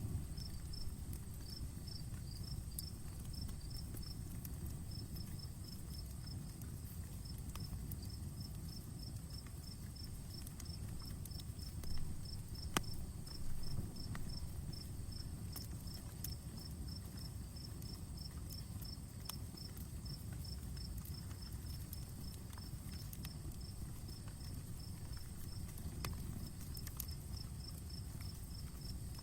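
Outdoor campfire burning with a low steady rumble and scattered crackles and pops, a few louder ones about halfway through. A cricket chirps steadily in the background, a few chirps a second.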